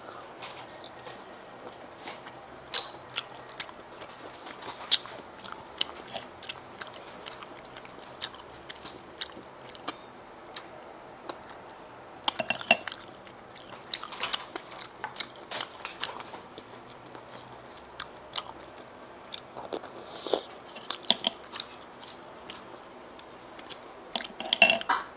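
Close-up chewing of sea snail meat: wet smacking and short clicking mouth sounds in scattered runs, busiest around the middle and again near the end.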